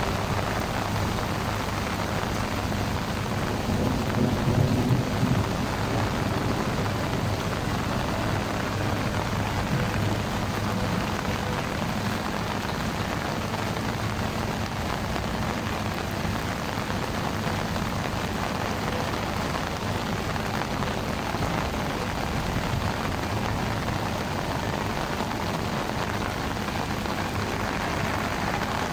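Heavy rain pouring steadily, with a brief low rumble about four seconds in.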